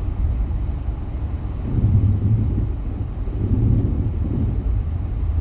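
Vehicle driving on snowy roads, heard from inside the cab: a steady low engine and road rumble that swells twice.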